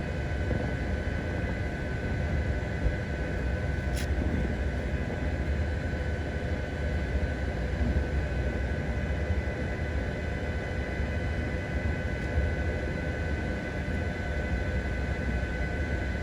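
Steady low engine rumble with a constant high whine above it, and a single sharp click about four seconds in.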